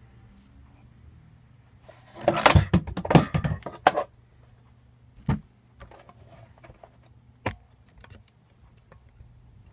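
Hard parts of a lightsaber replica being handled: a burst of clattering and clicking about two seconds in lasting about two seconds, then two single sharp clicks.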